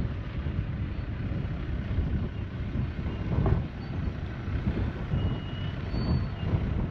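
Ford Ranger 4WD engine working under load as it drives up an off-road track, an uneven low rumble.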